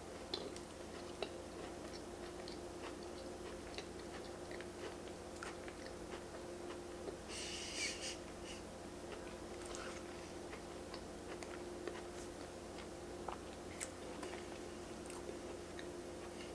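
Close-miked chewing of a bite of soft cake with a crisp crust: small wet mouth clicks and smacks scattered throughout, with a short breathy exhale a little after seven seconds in.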